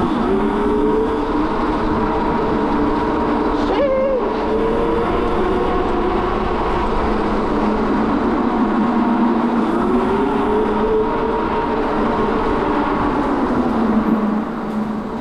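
Ebox dragster mini bike's motor whining under wind and tyre noise, its pitch rising and falling as the bike speeds up and slows, dropping away in the last second.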